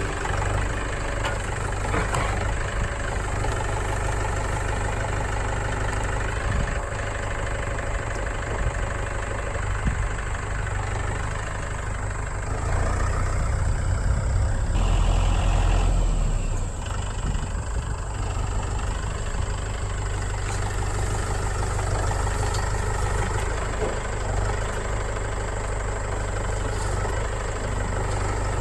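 Engine running steadily, a little louder for a few seconds about midway.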